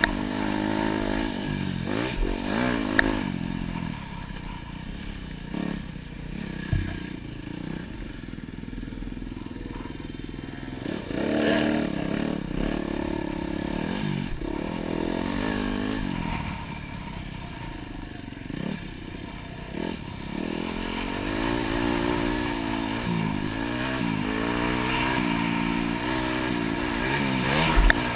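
Dirt bike engine ridden hard around a motocross track, its pitch rising and falling again and again as the throttle opens and closes, with a few sharp knocks and rattles from the bike.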